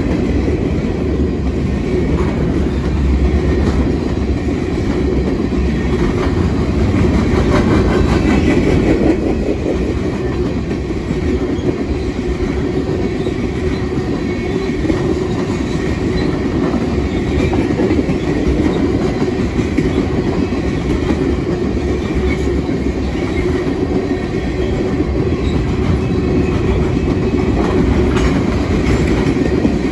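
Freight cars of a Canadian National manifest train rolling past at a grade crossing: a steady rumble of steel wheels on rail, mostly tank cars and hoppers going by.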